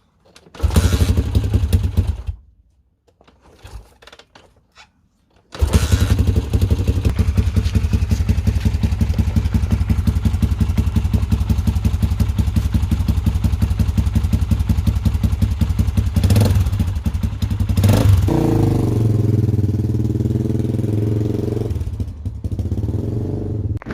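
Honda XR400R single-cylinder four-stroke dirt bike engine being started with new spark plugs fitted: it fires briefly and stops, then catches about five seconds in and keeps running. It is revved briefly twice near the end, then settles to a smoother, lower run.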